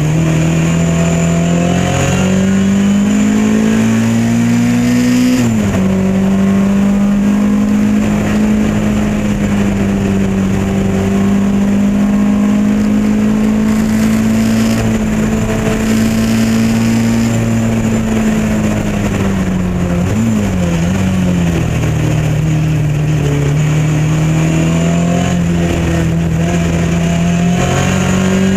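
Lotus Elan race car's engine heard from on board at racing speed. It climbs through the revs and changes up about five seconds in, holds a high steady note, then falls away with a quick throttle blip on a downshift about twenty seconds in, and pulls up through the revs again near the end.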